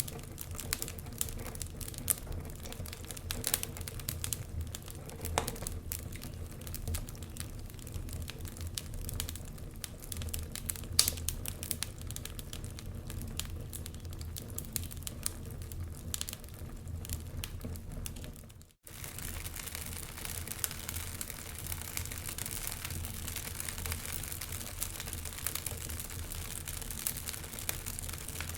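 Logs burning in a fireplace: steady crackling with frequent sharp pops over a low steady rumble. The sound cuts out for an instant about two-thirds of the way through.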